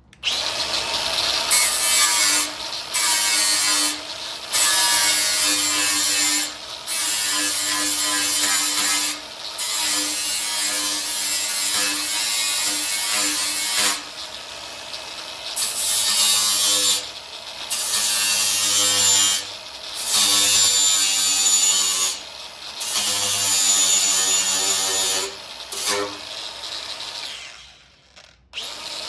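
Angle grinder with a flap disc grinding spot welds flat on a car's steel wing panel. It runs in passes of a few seconds, each broken by a short dip where the disc comes off the metal and only the motor's whine carries on. It stops about a second before the end.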